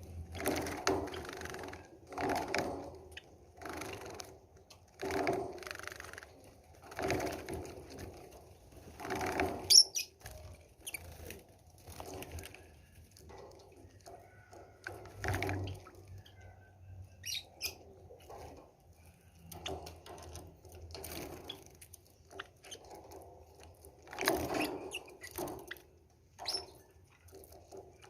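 A Java sparrow bathing, splashing and fluttering its wings in water in short bursts every second or two, with brief pauses between.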